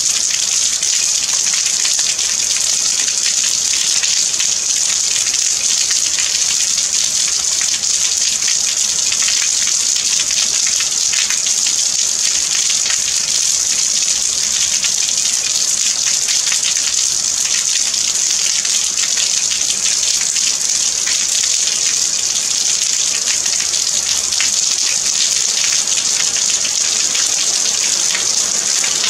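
Steady heavy rain: a dense, even hiss brightest in the high range, speckled with the fine patter of countless drops.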